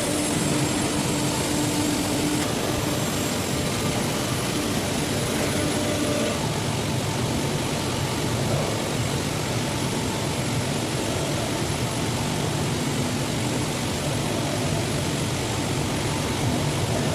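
Moving truck's steady engine and road noise, an even drone with no breaks. A low hum on top drops away about two seconds in.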